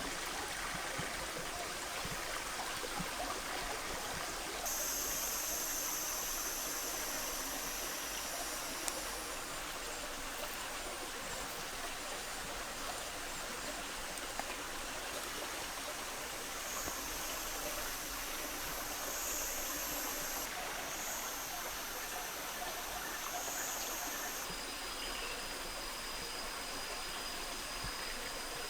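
Steady rush of flowing water, like a stream. A high, thin whine comes and goes over it, twice for several seconds at a time.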